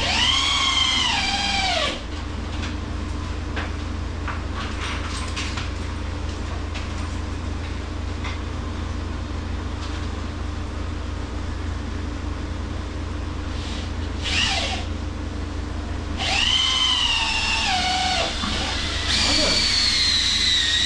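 Cordless drill driving screws into pressure-treated wood in short runs, about one near the start and three more near the end. The motor's whine drops in pitch as each screw bites and slows it.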